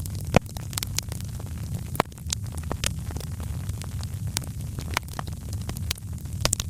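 Wood fire burning in a fireplace: a steady low rumble of flames with irregular sharp crackles and pops, the loudest about half a second in.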